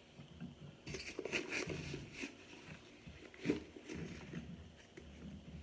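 Close-up chewing of a toasted, air-fried cornstarch chunk: a run of crisp crunches and crackles, loudest about three and a half seconds in, easing off toward the end.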